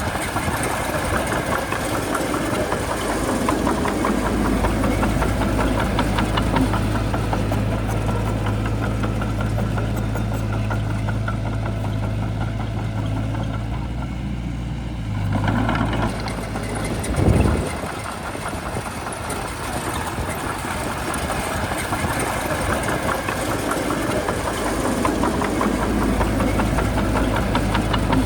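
Heavy diesel engine of a bulldozer running steadily with an even low note. Its note shifts past the middle, with a short loud thump about seventeen seconds in.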